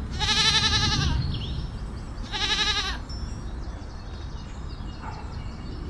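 A goat bleating twice with a quavering voice: one long bleat at the start and a shorter one about two seconds later.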